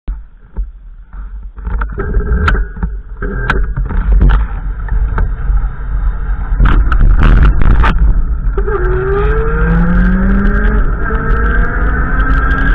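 A motor vehicle's engine speeding up as it accelerates, its pitch rising steadily from about two-thirds of the way in, over a constant low rumble. Scattered clicks and knocks come before it.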